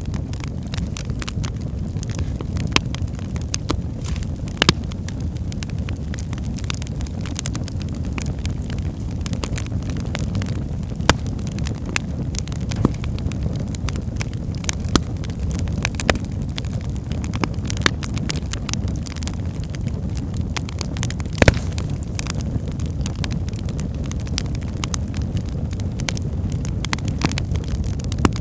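Wood fire burning in a fireplace: a steady low rumble of flames under frequent small crackles of the burning logs, with a few louder sharp pops scattered through.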